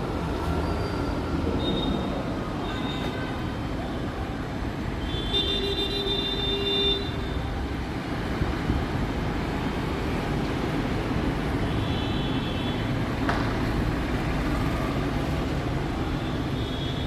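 Steady rumble of passing road traffic, with a few short high-pitched calls over it and one longer, louder tone lasting about a second and a half a third of the way in.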